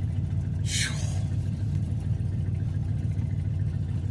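A 1977 car's engine running steadily while it is being driven, with a brief high-pitched sound that falls in pitch a little under a second in.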